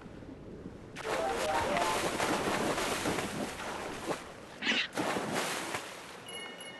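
Rushing, splashing water that starts suddenly about a second in, with a few quick stepped musical notes over it at the start, a brief high whistle just before five seconds, and faint short tones near the end.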